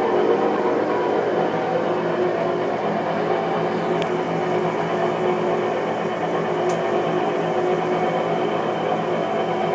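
Whirlpool Cabrio top-load washer on its spin cycle, making a loud, steady noise with several held tones. The noise is a fault on a new machine.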